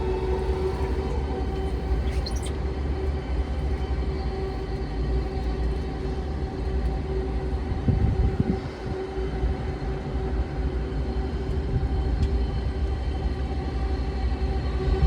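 Odakyu 4000-series electric train running, heard inside the car: a steady rumble of wheels on rail with a steady whine that holds its pitch, the train at speed. A brief heavier low surge comes about halfway through.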